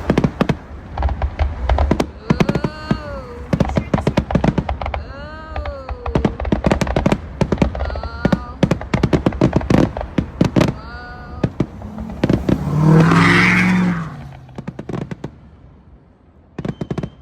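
Fireworks going off: rapid sharp bangs and crackling pops, with a few tones that rise and then fall. A louder swell of noise comes about thirteen seconds in, then it dies down.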